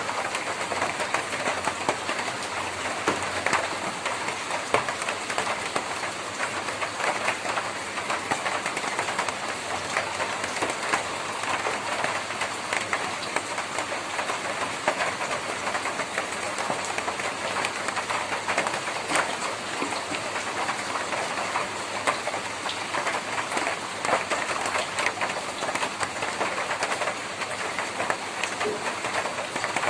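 Rain falling on a tin roof: a steady, dense stream of drop hits with no let-up.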